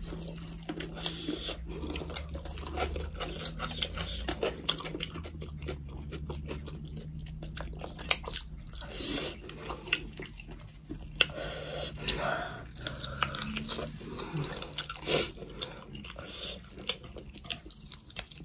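Two people biting and chewing crunchy fried chicken and salad close to the microphone: irregular wet crunches, smacks and mouth clicks, with a steady low hum underneath.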